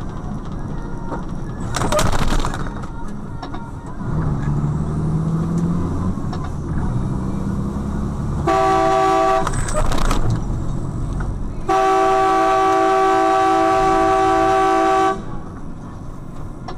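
Car horn honking: one blast of about a second, then a long held blast of about three and a half seconds, over steady road and engine noise. A brief loud noisy burst comes about two seconds in.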